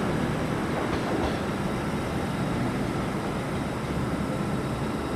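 Train moving through a station platform: a steady rumbling noise of wheels and running gear that slowly fades.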